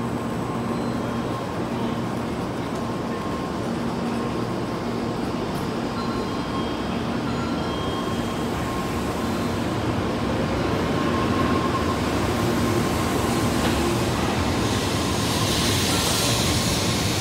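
N700S Shinkansen train pulling away from the platform, its cars rolling past with a steady rumble and hum of wheels and running gear. It grows louder about two-thirds of the way through, and a high hiss rises near the end as the train picks up speed.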